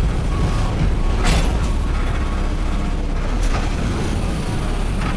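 Front-load garbage truck engine running with a steady low rumble, crossed by a few short knocks about a second in and again past the middle.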